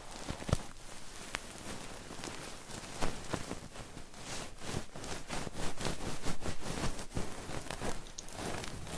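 Close-miked ASMR trigger sounds: a dense run of soft clicks and crackles, thicker and busier from about four seconds in.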